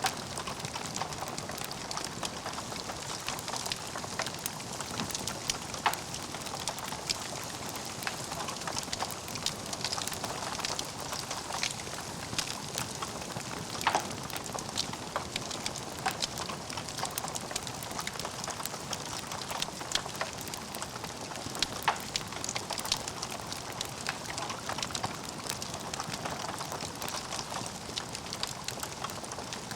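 Wood logs burning in a fireplace: a steady hiss with frequent small crackles and a few sharper pops.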